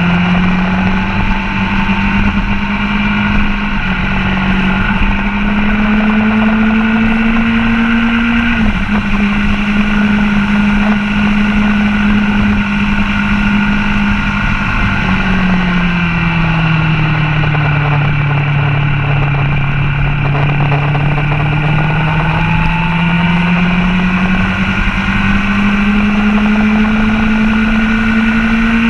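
Sport motorcycle engine running hard on a race track, heard from a camera mounted on the bike. Its pitch climbs steadily, drops briefly about nine seconds in, falls away through the middle as the bike slows for a corner, then rises again as the throttle comes back on.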